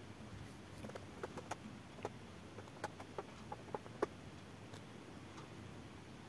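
About a dozen faint, sharp clicks and taps, irregularly spaced, bunched between about one and four seconds in.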